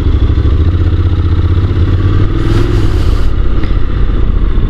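Honda NC750's parallel-twin engine running under way on a ride, heard from on the bike, with a brief rush of noise about halfway through.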